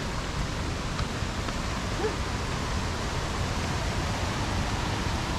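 Steady rushing noise of a waterfall pouring into a canyon, a continuous even hiss with heavy low rumble.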